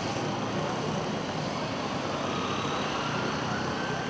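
Steady street traffic noise, with a faint rising tone like a distant siren in the second half.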